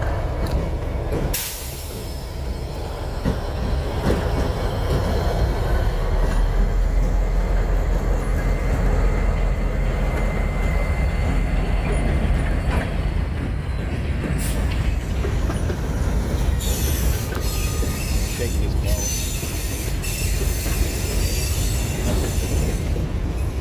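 Freight train cars rolling past on the rails with a steady low rumble of wheels, and a high squeal of wheels on rail in the last several seconds.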